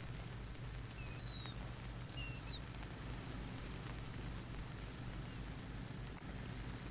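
Birds giving a handful of short, high chirping calls, scattered through the few seconds, over a steady low hum.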